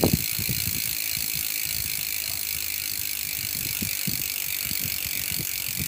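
Weapon Fever bicycle rear hub freewheeling: the pawls make a fast, steady ratchet buzz as the wheel coasts, with a few low thumps at the start and again near the end.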